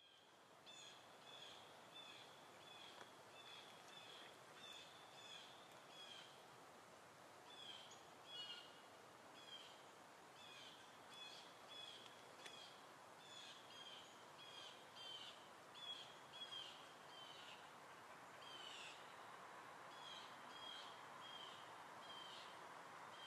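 Faint outdoor background hiss with a bird repeating short, high chirps about two a second, broken by a few brief pauses.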